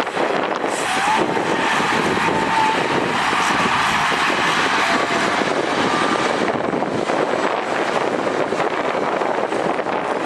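Heavy earth-moving machinery working, its engine running steadily, with a faint high whine in the first few seconds.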